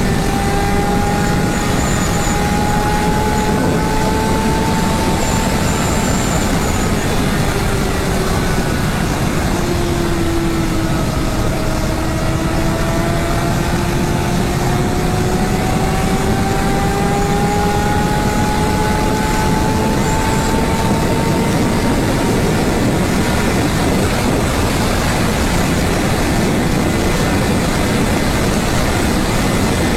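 Honda CBR600RR inline-four with a LeoVince exhaust accelerating hard at high speed under heavy wind rush. The engine note climbs, drops once around ten seconds in as the rider shifts up, climbs again, then fades under the wind.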